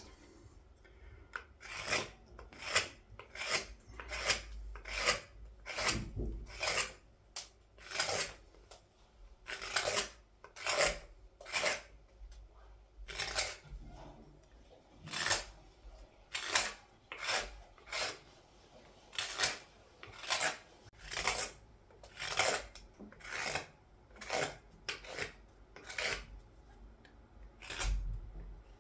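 A hand carving blade cutting into wood as the bowl of a large wooden scoop is hollowed out: a steady series of short scraping cuts, about one a second. The cuts come smooth and fast once the groove is established.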